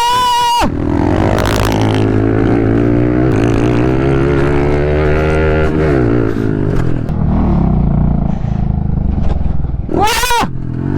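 Pit bike single-cylinder engines at racing revs, pitch climbing and falling with throttle and gear changes, the engine note dropping about six seconds in. A sharper, higher-revving engine note rises briefly at the start and again near the end.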